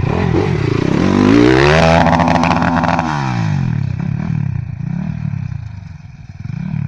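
250 cc X Motos motorcycle engine revving hard, climbing in pitch for about a second and a half, holding briefly, then dropping back, followed by a few smaller throttle blips.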